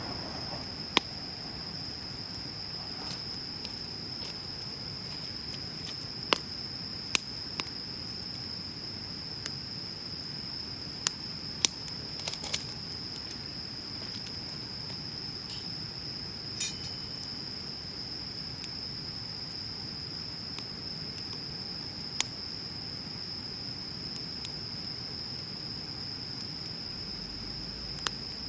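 Bonfire burning with a soft hiss and about a dozen scattered sharp crackles and pops from the burning wood. Behind it, insects trill steadily in one high continuous tone.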